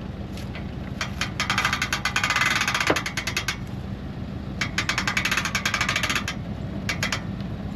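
Boat trailer winch ratcheting in two spells of rapid, even clicking as the boat is reeled onto the trailer, with a vehicle engine idling underneath.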